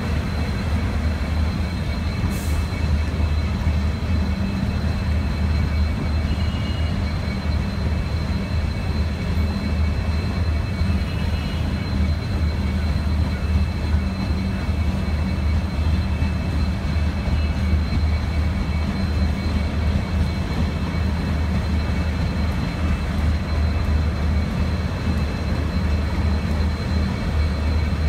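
Waiting train's locomotive idling, a steady low rumble with a faint high whine that does not change.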